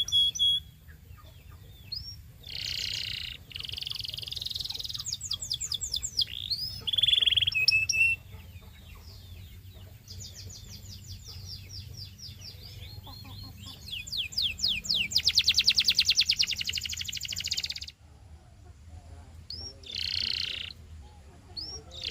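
Domestic canary singing: a varied song of chirps, rising whistled notes and rapid trills of repeated notes, broken by short pauses, with a long, loud, very fast trill about two-thirds of the way through.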